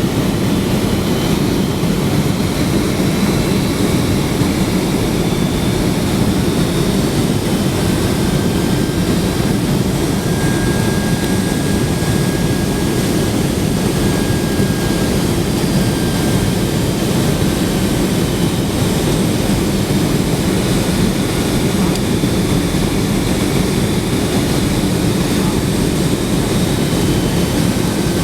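Steady cabin noise heard inside a Boeing 767-300 airliner in flight: an even drone of jet engines and rushing air, with a few faint thin whines above it.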